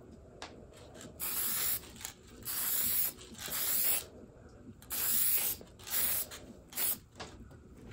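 Hand rubbing strokes on a wooden door, six in a row, each under a second long.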